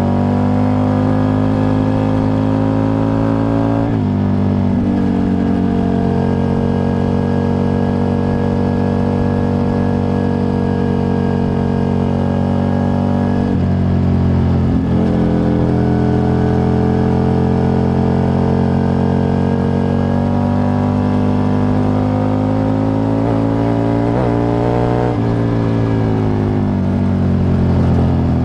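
Aprilia RSV 1000 V-twin engine pulling on the road, recorded from under the seat. Its note climbs slowly and drops sharply three times, about four, thirteen and twenty-five seconds in, as it shifts up through the gears.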